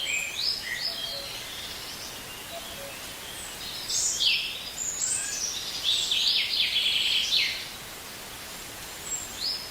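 Cockatoos screeching: harsh calls in the first second, then a longer run of overlapping screeches from about four to seven and a half seconds in, over a faint outdoor background.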